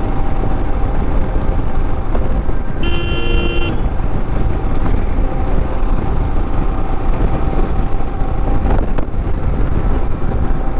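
Steady rumble of road traffic with a vehicle horn sounding once for about a second, a few seconds in.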